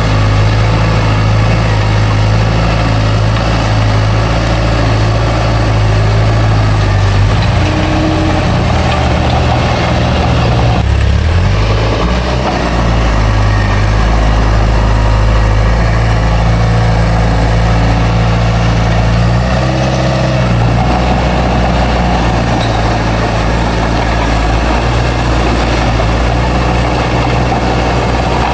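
Heavy diesel engine of a bulldozer running steadily while working. Its pitch dips and shifts briefly about 11 seconds in and again about 20 seconds in.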